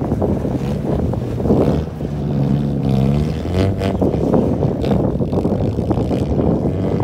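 Small front-wheel-drive car's engine running as the car slides across an icy lot, revving up about two seconds in and easing off at about the halfway point, with wind noise on the microphone.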